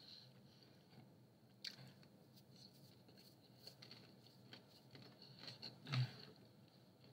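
Faint chewing of a mouthful of pizza, with soft wet mouth clicks and one louder low mouth sound about six seconds in.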